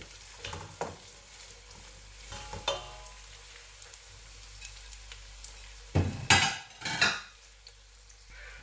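Diced vegetables sizzling in oil in a stainless steel pot while being stirred with a wooden spoon. A few light clicks come early, and a cluster of loud knocks and scrapes of spoon on pot comes about six to seven seconds in.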